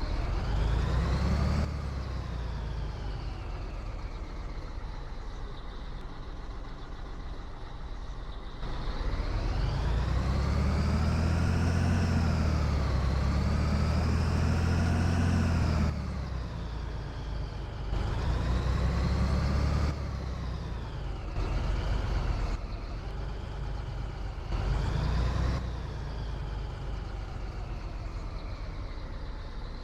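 Scania 113 truck's six-cylinder diesel engine under way, its note rising and falling as it is put under power and eased off. There is a long louder pull about ten to sixteen seconds in and shorter ones around twenty and twenty-five seconds.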